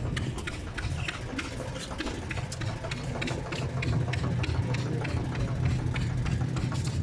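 An engine idling steadily: a low, even hum with a fast, regular ticking over it.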